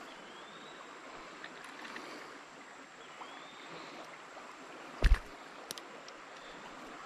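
Creek water running steadily over rocks, with a faint rising chirp twice. About five seconds in there is one short loud thump, followed by a couple of small clicks.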